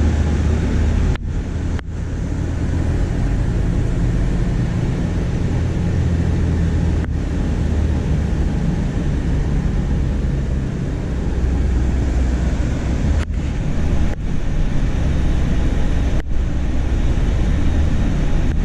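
Scania coach's diesel engine running with a steady low rumble, broken by a few very brief gaps.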